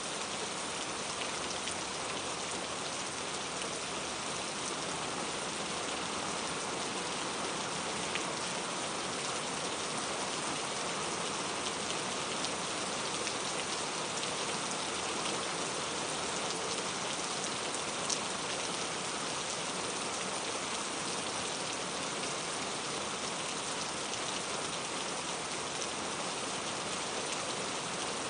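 Steady rain falling, an even hiss with scattered individual drop ticks, one slightly louder about eighteen seconds in.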